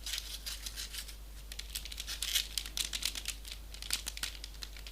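Folded paper origami pieces rustling and crinkling as they are handled and pressed into place, a quick irregular run of light dry clicks and crackles.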